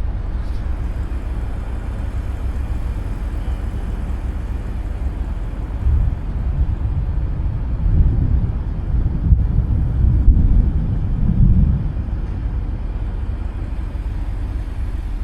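Thunder rolling, swelling about six seconds in and dying away about twelve seconds in, over a steady low rumble.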